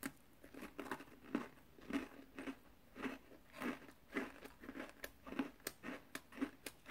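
Close-up chewing of a crisp No Brand crunch cookie: a bite at the start, then regular crunching chews about two a second.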